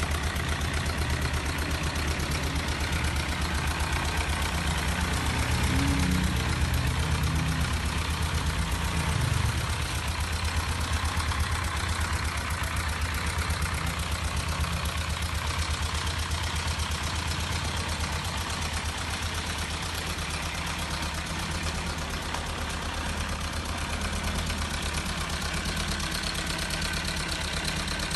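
Kawasaki KLE 250 Anhelo engine idling after a cold start. Engine speed rises briefly around six to nine seconds in, then drops back to a steady idle.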